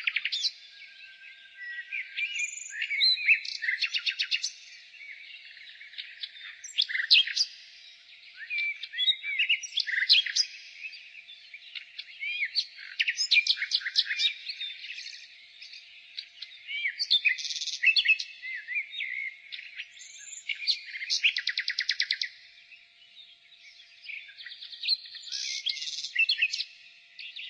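Nightingale singing: a string of varied phrases, each a second or two long with short pauses between, mixing clear whistled notes with fast rattling runs of repeated notes.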